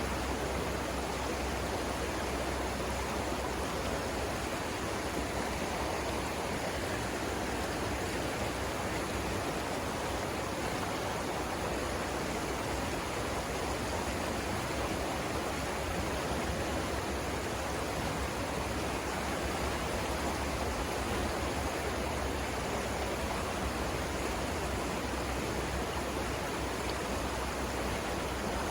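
Steady rushing of river water flowing over rapids, an even, unbroken wash of sound.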